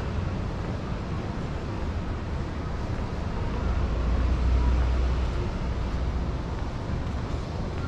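Low, steady rumble of outdoor street noise, swelling for a second or two around the middle.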